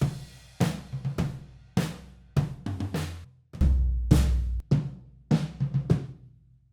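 Sampled drum kit, a 1960s Japanese stencil kit, playing a pop groove of kick, snare and hi-hat hits. It stops briefly just before the end.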